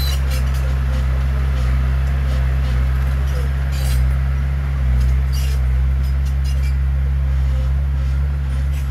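Heavy diesel engine of earthmoving machinery running steadily with a deep, constant drone. Scattered short clanks and rattles sound over it.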